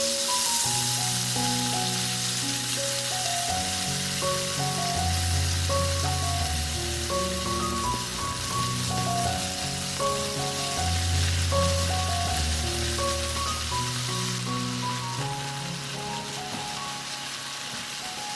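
Food frying in oil in a pan with a steady sizzle, growing softer near the end, under background music with a melody and a bass line.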